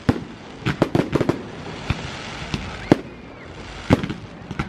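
Aerial fireworks going off: an irregular run of sharp bangs and pops, most closely spaced in the first second and a half, with crackling sparks between them.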